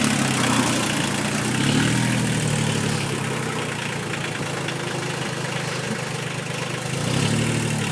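Tractor engine running at low revs, its note lifting slightly about two seconds in and again near the end.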